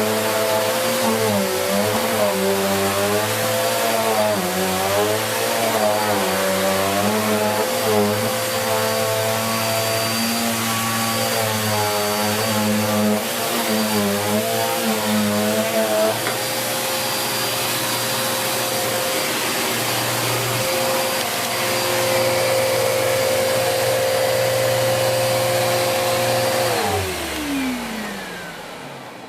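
Bissell Cleanview Plus 1900W bagless upright vacuum cleaner running on carpet. Its motor pitch wavers up and down for the first half, then holds steady. Near the end it is switched off and winds down.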